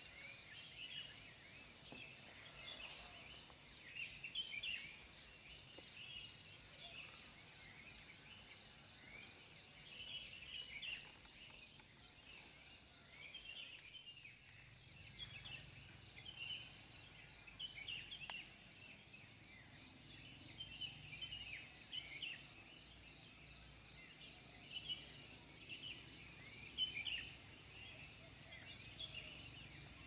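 Faint chorus of small birds chirping, with many short high twitters and little rising and falling calls overlapping, over a quiet steady background hush.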